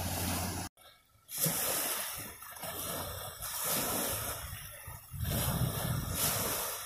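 Ocean waves washing in: a hissing rush that swells and eases in surges. It cuts out abruptly for about half a second near the start.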